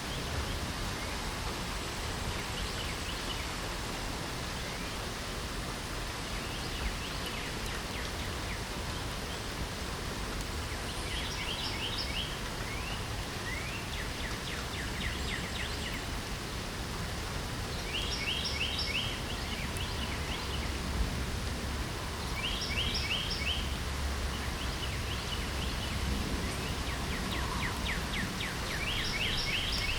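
Steady hiss of light spring rain, with a songbird singing short, fast trilled phrases every few seconds, more often in the second half.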